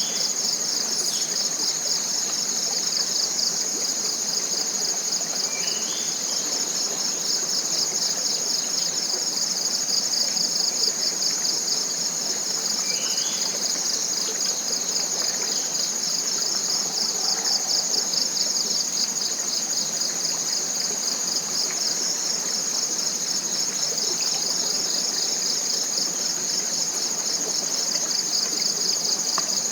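Dense, steady chorus of forest insects, a continuous high-pitched pulsing buzz. Three short rising bird chirps come through in the first half.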